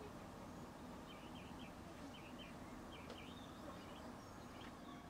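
Faint outdoor ambience: a steady low rumble, over which a small bird gives a series of short chirps through the first three and a half seconds and once more near the end.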